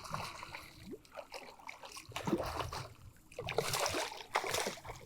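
Water splashing and sloshing in short irregular bursts beside a kayak as a hooked redfish is brought to the boat, the loudest splashes a little past the middle.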